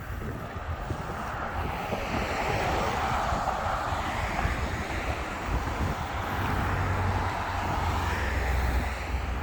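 Wind rushing over the microphone of a cyclist riding downhill, with a low rumble underneath. The rush grows louder a second or two in, as the bike picks up speed, and then holds steady.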